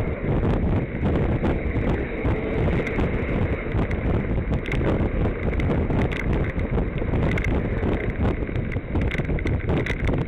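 Wind buffeting the microphone during a bicycle ride, with a constant rattling chatter of small knocks from the bike over the road surface.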